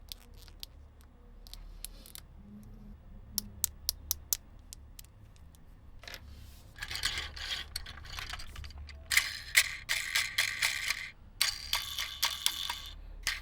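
Plastic toys and packaging being handled during an unboxing: scattered light clicks and taps, then from about seven seconds in several stretches of dense rattling and crinkling.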